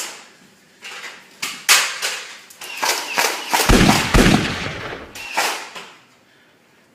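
A quick, irregular series of sharp shots and bangs, about eight in all, several with a heavy thud, like gunfire. It stops about six seconds in.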